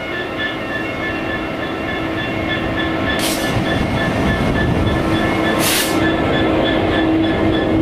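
Diesel freight locomotive drawing nearer, its engine and train noise growing steadily louder, with a pulsing high-pitched tone throughout. Two short hissing bursts come about three and six seconds in.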